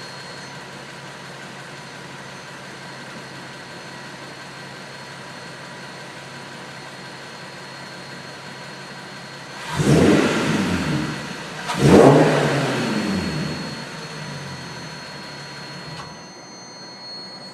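Nissan 370Z's 3.7-litre V6, fitted with a Takeda aftermarket intake, idling steadily, then revved sharply twice about ten and twelve seconds in, each rev climbing and falling back to idle; the low engine sound stops about sixteen seconds in. The owner is chasing a weird noise from the intake.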